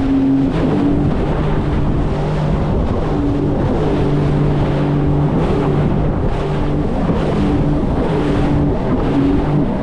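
Sea-Doo Fish Pro jet ski running at speed, its engine tone stepping up and down several times as the throttle changes. Underneath is a loud, steady rush of wind and water.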